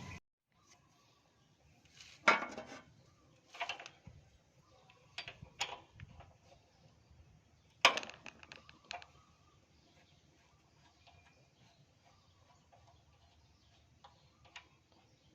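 A few scattered metallic clinks and knocks of small engine parts and the gasoline tank being handled and set down, two of them louder, with quiet gaps between.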